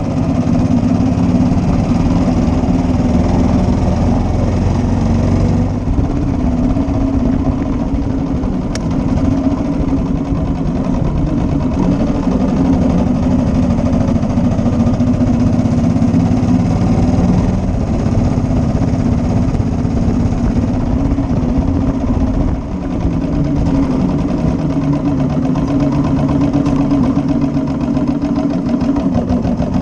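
1941 Matchless G3L's 350 cc single-cylinder four-stroke engine running steadily on the ride, its firing pulses close and even, with brief dips in level about six seconds and about twenty-two seconds in.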